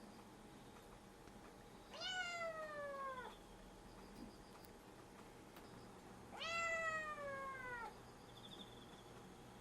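Eleven-week-old kitten meowing for her food: two long meows a few seconds apart, each starting high and sliding down in pitch.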